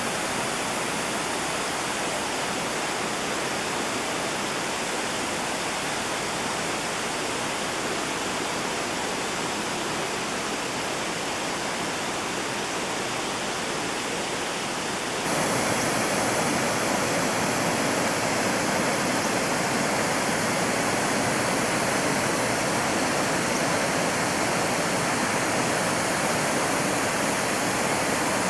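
Rushing water of a mountain stream, a steady rush that suddenly becomes louder and fuller about fifteen seconds in.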